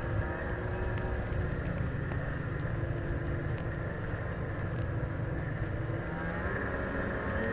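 A motor vehicle's engine running on the move, with heavy low rumble from wind and road on the microphone; the engine's pitch climbs near the end as it speeds up.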